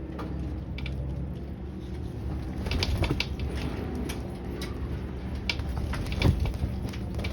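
Gulls giving short, sharp calls at irregular intervals over a steady low rumble.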